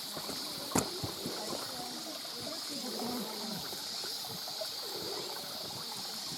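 Mountain stream water trickling and gurgling over rocks, a steady rush with many small bubbling sounds. A single sharp click sounds about a second in.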